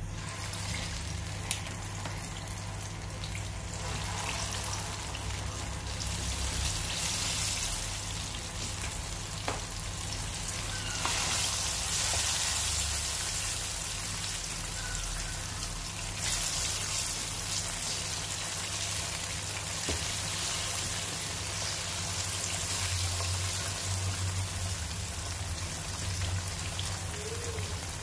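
Ripe plantain slices sizzling and crackling in hot vegetable oil in a frying pan, the sizzle swelling several times as more slices go in. A few light clicks sound over it.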